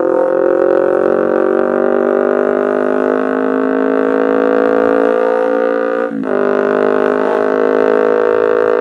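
Kawasaki Ninja 250R parallel-twin engine through an aftermarket Austin Racing exhaust, running under way. Its note climbs slowly as it pulls, then cuts out briefly about six seconds in and comes back lower, as on an upshift.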